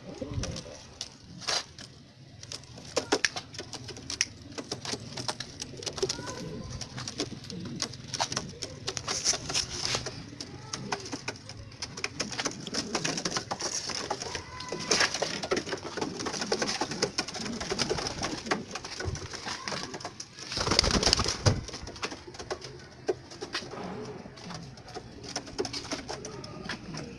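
Domestic pigeons cooing, mixed with many short clicks and knocks from the birds moving about. A louder noisy burst comes about three quarters of the way through.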